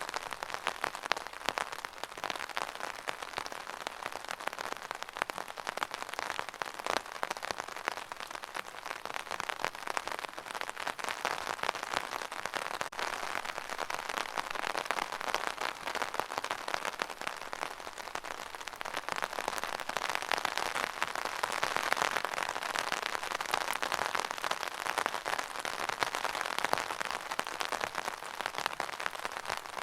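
Steady rain falling, a dense patter of many small drops striking a surface.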